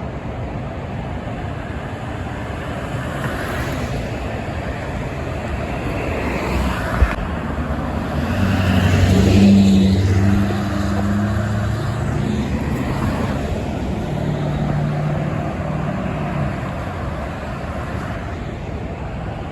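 Steady highway traffic noise, with a heavy truck passing close by. Its low engine drone swells to the loudest point about nine to ten seconds in, then fades back into the traffic.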